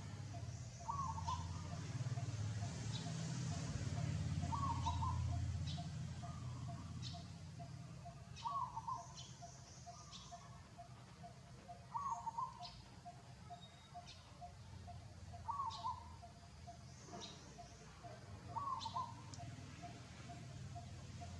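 A short animal call, repeated six times about every three and a half seconds, over a faint, fast, steady ticking and scattered light clicks.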